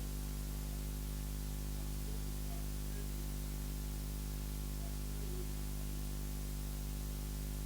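Steady electrical hum with hiss, with no other sound standing out.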